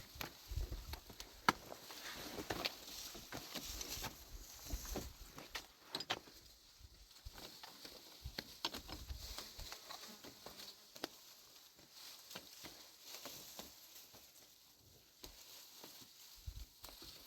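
Faint, irregular steps and light knocks on hard ground, scattered clicks coming unevenly, busiest in the first half.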